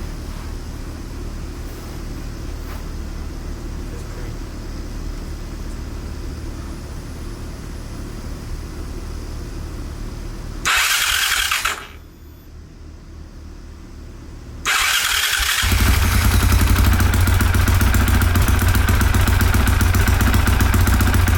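2023 Honda CRF450R's single-cylinder four-stroke engine being started. A short loud burst comes about eleven seconds in, then the engine catches about fifteen seconds in and keeps running steadily. A steady low rumble plays underneath beforehand.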